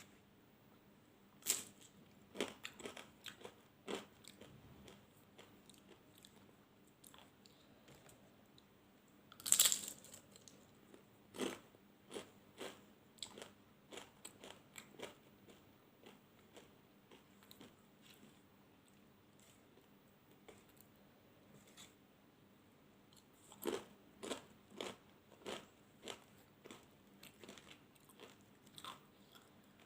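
Close-miked mouth sounds of a person eating Indian food: crisp bites and wet chewing in short bursts of clicks. The loudest bite comes about ten seconds in, and another run of chewing comes about three-quarters of the way through.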